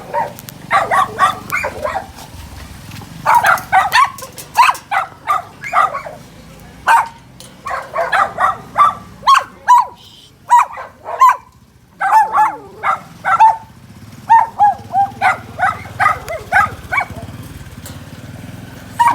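Dog barking in repeated runs of short, high-pitched barks and yips, with a pause of about two seconds midway.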